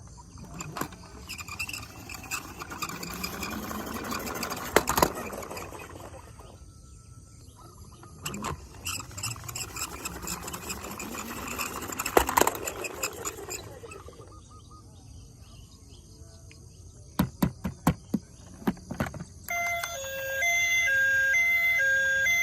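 Toy vehicle sounds: two long swelling rushing noises with clicks, a quick run of clicks, then near the end a loud electronic two-tone siren starts alternating high and low, as on a toy ambulance.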